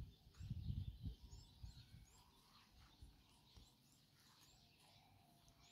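Faint, short high chirps of small birds, repeated every second or so over a quiet outdoor background, with a low rumble in the first second or so.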